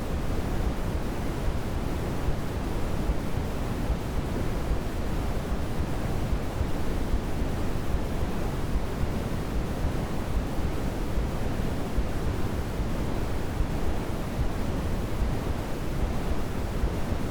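Steady sleep-aid white noise for babies: a constant, even rush that does not change, heavier in the low end than in the highs.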